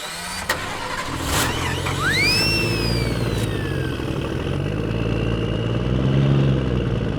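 A small motor running steadily, its pitch rising and falling near the end, with a whistle-like tone that rises and then falls about two seconds in.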